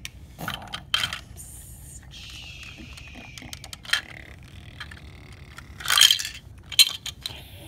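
Plastic Duplo toy pieces clicking and clattering as they are handled and loaded, with two louder knocks near the end.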